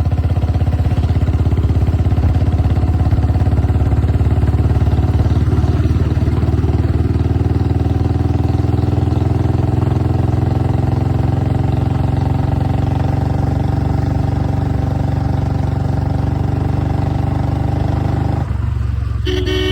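Old Royal Enfield Bullet 350's single-cylinder engine running steadily through a long Punjab bottle silencer, a loud, even exhaust thump with its pitch easing slightly lower over time. Near the end the exhaust note thins and a short pitched tone comes in.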